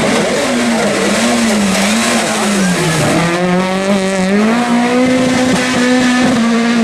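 Small Fiat rally car's engine running hard at high revs. Its pitch wavers, dips about three seconds in, then climbs back up and holds high.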